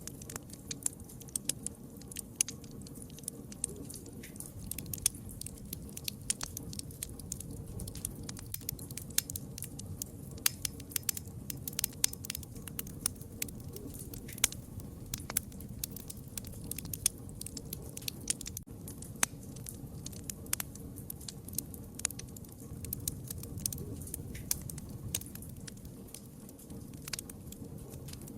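Wood fire crackling: frequent sharp pops and snaps at irregular intervals over a steady low rumble of burning.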